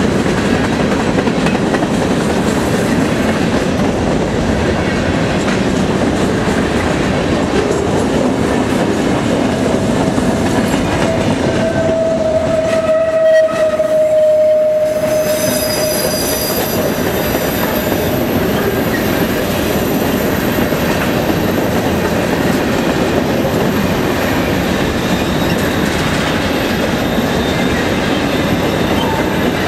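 Freight cars rolling past close by: steady clatter and rumble of wheels over the rail joints. About a third of the way in, a single drawn-out tone with a slight fall in pitch rises over the clatter for a few seconds.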